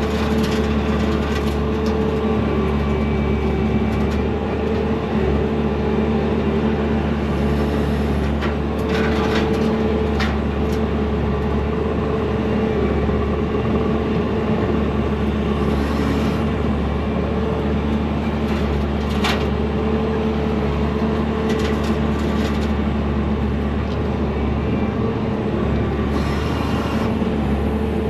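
Skid steer's diesel engine running steadily under load, driving a vertical hydraulic brush mower, with a few brief crackles of brush being cut.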